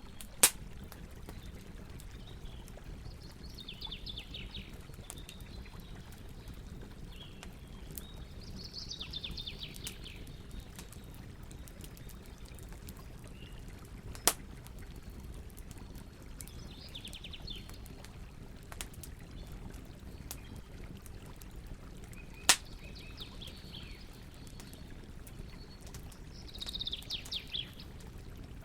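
Campfire crackling, with scattered small ticks and three sharp loud pops, over a steady low background noise. A bird sings short trilled phrases every four to five seconds.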